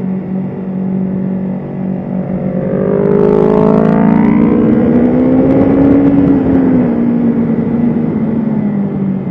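BMW S1000RR's inline-four engine pulling hard: its note climbs in pitch and grows louder from about three seconds in, peaks around six seconds, then eases down.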